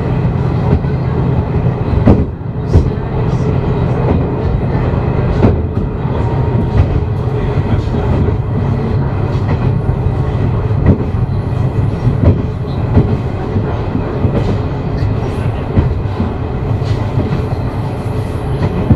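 Diesel railcar running along the track, heard from inside at the front: a steady low rumble with the wheels clicking sharply over rail joints at uneven intervals.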